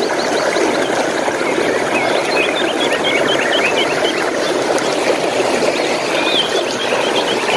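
Running water, a steady rush, with small songbirds chirping over it: a quick run of chirps about two seconds in and a few more near the end.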